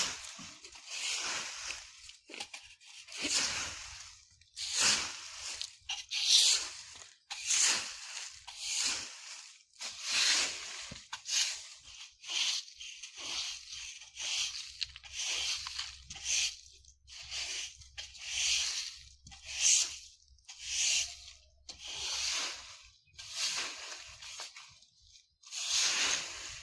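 A broom sweeping dry fallen leaves on the ground, in repeated rustling, crunching strokes at about one a second.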